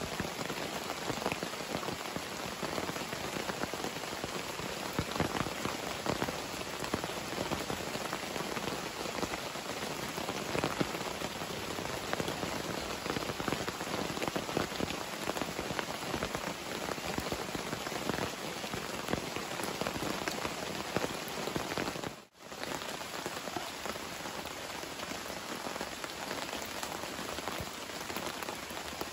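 Heavy rain falling steadily, a dense hiss packed with countless small drop hits. The sound cuts out for an instant about 22 seconds in.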